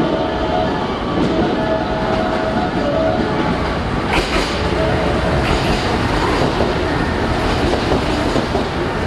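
JR West KiHa 189 series diesel limited-express train pulling into the platform, its engines running and its wheels clicking over the rail joints, with a sharp clank about four seconds in.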